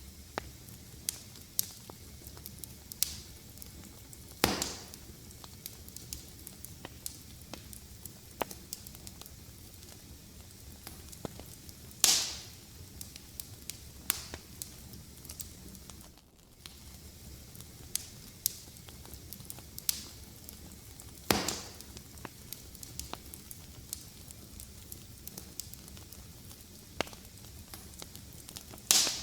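Wood fire crackling: a steady low rumble with frequent small snaps and four louder pops spread through it.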